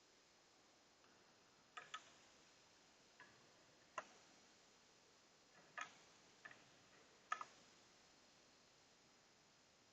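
Near silence with a few faint, scattered light clicks and taps.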